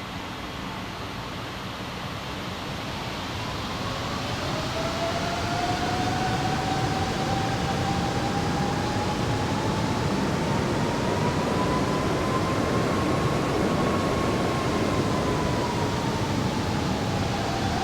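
Jet airliner engines running with a rumble that grows louder over the first several seconds. From about four seconds in, a whine rises in pitch, then falls slightly near the end.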